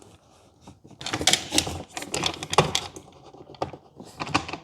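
Rapid irregular clicking and knocking as a twist-lock PCV breather cap is pushed down, wiggled and turned into the engine's valve cover to seat it. The clicks start about a second in and continue almost to the end.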